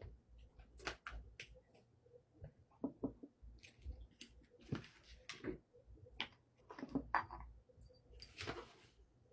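Faint scattered small clicks and rustles, with a short hiss of noise near the end, over a low hum.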